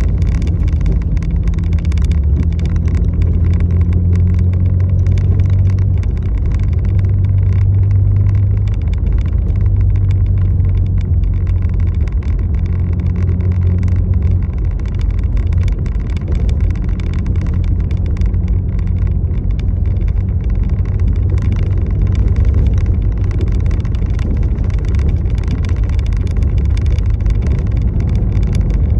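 Steady low drone of a moving road vehicle, engine and road noise held at a constant level, with a faint fine crackle above it.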